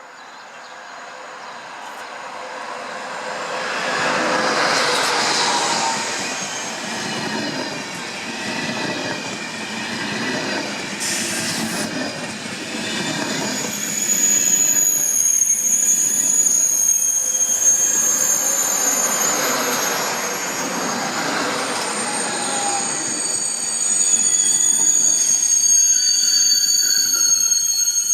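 A train approaching and running past on the rails, growing louder over the first few seconds into a steady rumble; from about fourteen seconds in, high steady wheel squeal rings over it.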